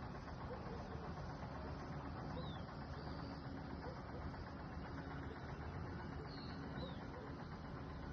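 A few faint, brief bird chirps, scattered over a steady background rush of noise.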